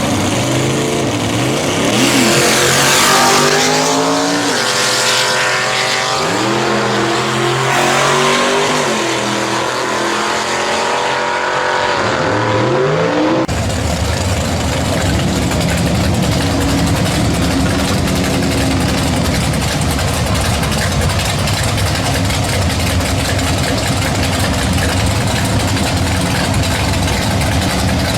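Gasser drag-car engine revving, its pitch rising and falling several times. About 13 seconds in, the sound cuts abruptly to a steady engine running.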